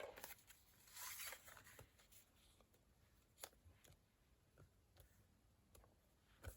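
Near silence, with faint paper rustling about a second in and a few small ticks of card being handled.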